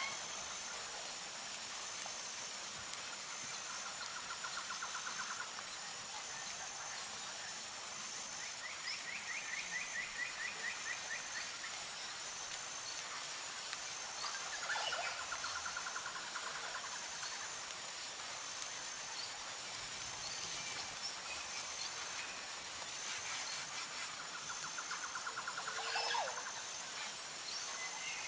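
Light rain falling with a steady hiss, with short rapid bird trills a few times and a faint high chirping that repeats at an even pace.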